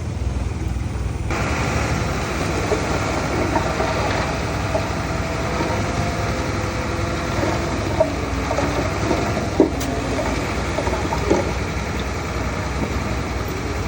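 Heavy diesel earthmoving machine running with a deep, steady engine rumble. About a second in, a rushing noise joins it, with wavering squeals and a few sharp clanks, the loudest a little under ten seconds in.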